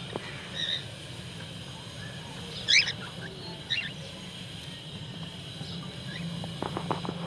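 Cockatiels chirping: a few short, high calls, the loudest about three seconds in, over a steady low hum. A handful of clicks comes near the end.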